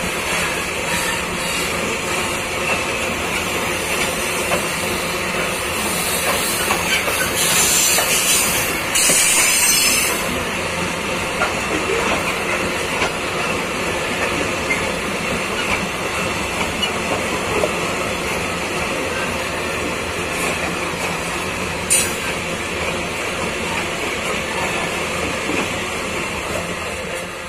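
Open-top freight wagons rolling past on steel rails, a steady rumble and clatter of wheels on track. A louder hissing stretch comes about seven to ten seconds in, and a single sharp click near the end.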